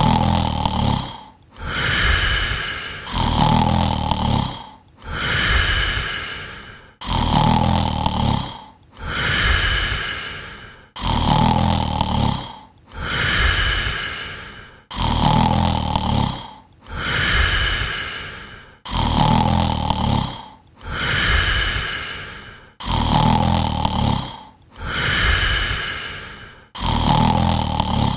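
Loud snoring sound effect looped evenly, one rattling snore breath about every two seconds, for a sleeping cartoon character.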